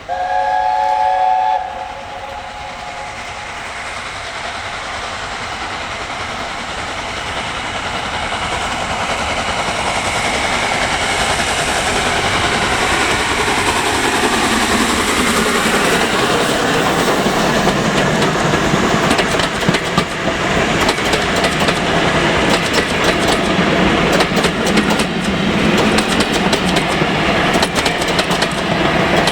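Steam train: a short chord-like whistle blast at the start, then the running train grows steadily louder as it approaches, with rapid clickety-clack of wheels over rail joints in the second half as it passes.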